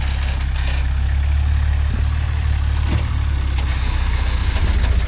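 Off-road rock-crawling truck engine running at low revs, a steady low rumble.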